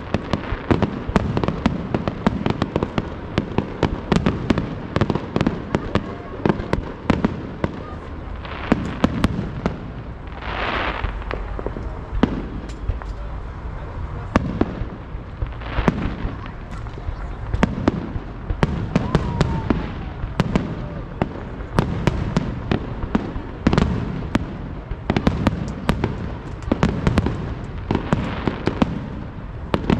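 Fireworks display: a dense, continuous run of crackling pops and sharp bangs, with a louder hissing burst about ten seconds in.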